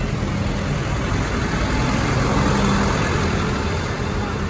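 Tractor engine running steadily, with a broad rumbling noise that grows a little louder around the middle.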